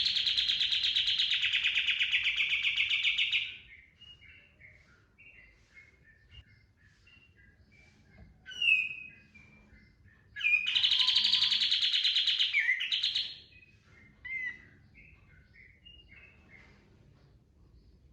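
Kapas tembak songbird singing: two loud, fast runs of rapid-fire notes, one at the start lasting about three and a half seconds and another about ten seconds in, with soft scattered chirps and a couple of short sweeping calls between and after them.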